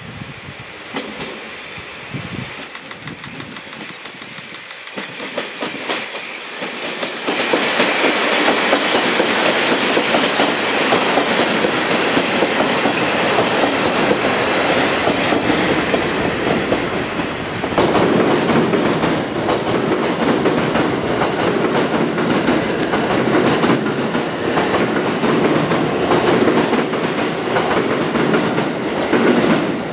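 Three-car train of Kashima Rinkai Railway 6000 series diesel railcars passing close by, its wheels clattering over the rail joints. It grows loud suddenly about seven seconds in and stays loud as the cars go by.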